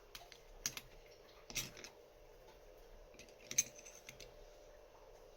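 Small metal parts of a LaGard 2200 lock clicking and clinking as they are handled and lifted out. There are a few separate sharp clicks, the loudest about three and a half seconds in.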